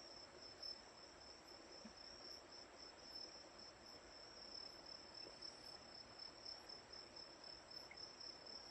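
Crickets chirping faintly in a continuous, rapidly pulsing high trill.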